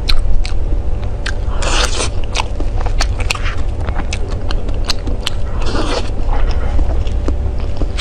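Close-miked eating of a fruit-filled ice cream cake: sharp clicks of biting and chewing, with two longer scraping, crunching sounds about two seconds in and near six seconds. A steady low hum runs underneath.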